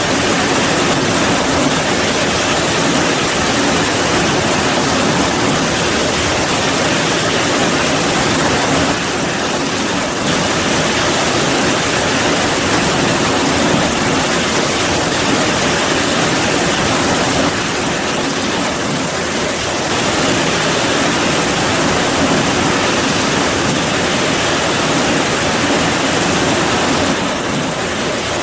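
Heavy rain falling steadily, a dense, even hiss of water, easing very slightly for a moment a few times.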